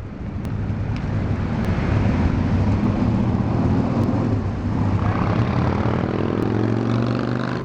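A motor vehicle's engine running close by in traffic, a steady low drone that grows louder about a second and a half in. Its pitch shifts near the end as it passes.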